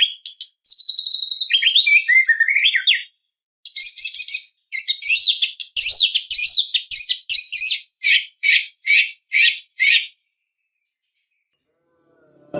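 White-rumped shama (murai batu) singing loud, varied whistled phrases. After a rapid warble and some falling notes comes a dense run of mixed notes, then a string of about eight short repeated notes, roughly three a second, before it stops near the end.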